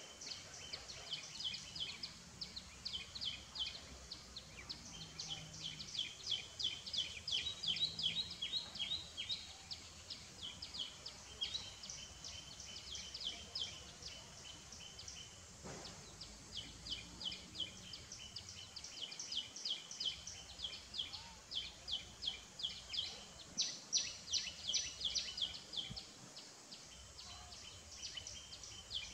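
Birds chirping in runs of quick, high-pitched calls, several a second, over a faint steady outdoor background.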